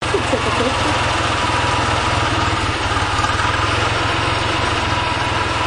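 Tractor engine running steadily at idle, with a rapid, even firing pulse.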